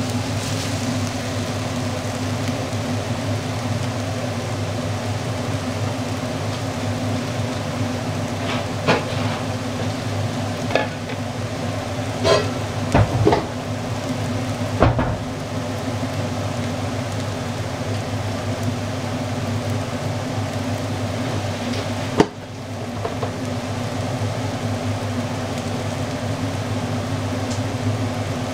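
Chopped eggplant flesh frying in a pan, a steady sizzle throughout. A few sharp knocks and clatters of kitchenware come about a third of the way in, and one more later on.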